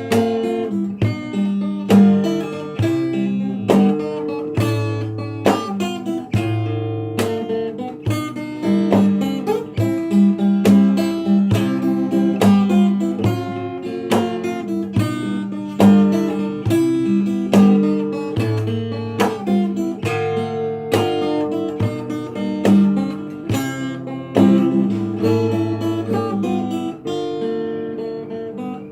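Acoustic guitar played fingerstyle: a melody picked over alternating bass notes, with no singing.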